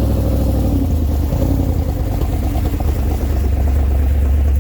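Car engine running close by at low speed, a deep steady exhaust rumble with a fast, even pulse.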